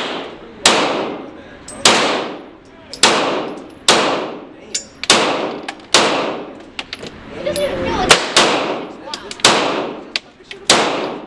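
A run of about a dozen single gunshots, roughly one a second, each a sharp crack followed by a long echoing tail.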